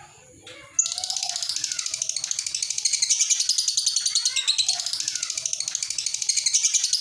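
Lovebird in 'ngekek' song: a long, unbroken, very rapid high-pitched chattering trill that starts about a second in, with lower curving chirps beneath it. It is the kind of song used as a master recording to train and provoke other lovebirds.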